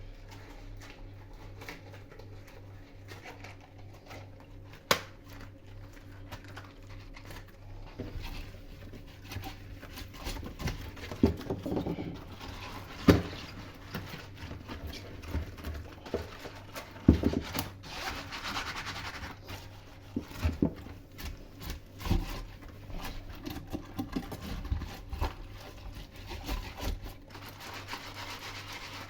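Kitchen work sounds: scattered sharp knocks and clicks of utensils and dishes, with stretches of rubbing and scraping, over a steady low hum.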